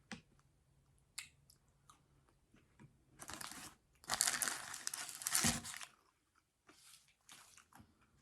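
Close-miked eating of a fast-food burger and fries: chewing and crunching, with paper wrapper crinkling in two longer bursts near the middle, the second ending in a soft thud.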